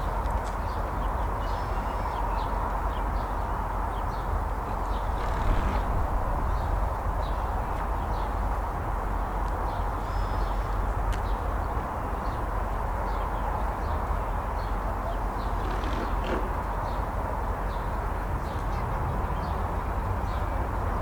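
A small bird chirping repeatedly in short high notes over a steady low rumble.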